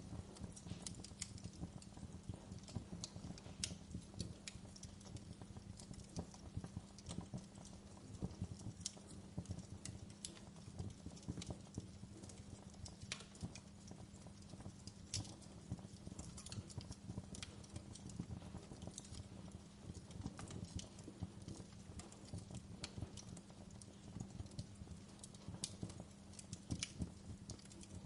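Wood fire burning in a fireplace, crackling with irregular sharp snaps and pops over a low, steady background.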